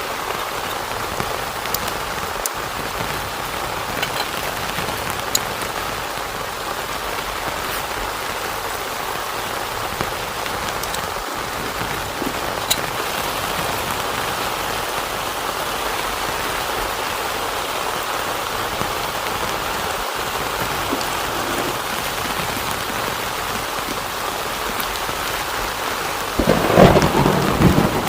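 Heavy rain falling steadily on a tent, with scattered single drop ticks. Near the end a short rumble of thunder rolls in, the loudest sound here.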